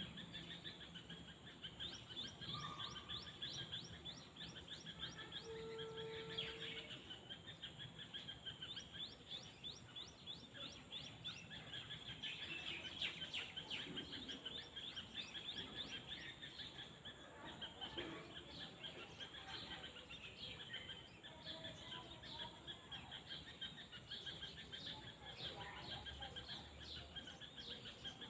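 Faint countryside ambience: many small birds chirping, with quick high chirps going on densely throughout and a couple of brief steady calls in the first few seconds.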